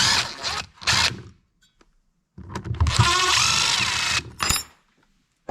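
Power drill running in two bursts, about a second and then about two seconds, its pitch wavering as it backs fasteners out of a Husqvarna 345 chainsaw's plastic housing during teardown.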